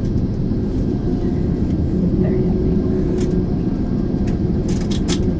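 Steady cabin rumble of a Boeing 767-400ER airliner, engine and air noise heard from inside the cabin, with a faint steady tone in it. A few faint clicks sound about three seconds in and near the end.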